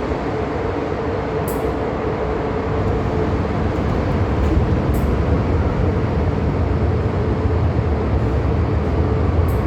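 Steady interior noise of an MTR M-Train carriage: a constant hum over a low rumble that grows a little louder partway through.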